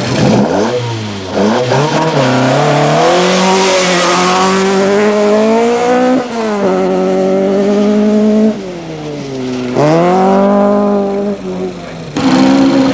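Rally car engine running hard at high revs, its pitch climbing, falling back and climbing again several times as the car accelerates through the gears.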